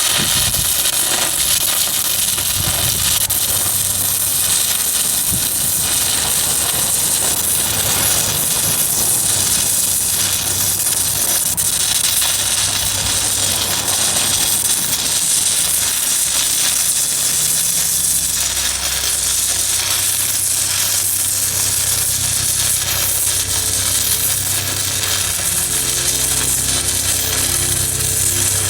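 Stick welding arc from a 1/8 in E6010 rod at 90 amps on steel plate: a loud, steady crackling sizzle as a capping bead is run. A low hum joins in partway through.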